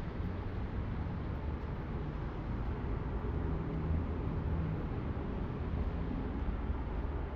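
Rainy city street ambience: a steady low rumble of traffic under an even hiss of rain and wet road.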